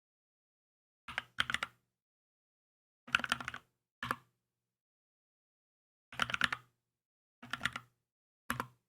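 Keychron K2 mechanical keyboard being typed on in short bursts of a few keystrokes, with pauses of a second or two between bursts.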